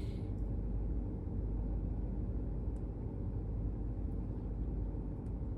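2000 Ford F-150's engine idling steadily with a new coil-on-plug ignition coil fitted to cure a cylinder 6 misfire (P0306). The idle is now smooth and steady, no longer rough or stumbling.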